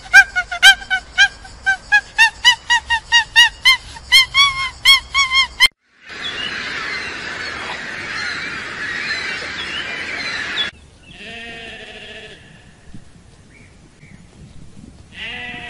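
A rapid series of honking calls, about four a second, rising slightly in pitch. It stops abruptly and is followed by a dense chorus of many birds calling at once. A few fainter sheep bleats come near the end.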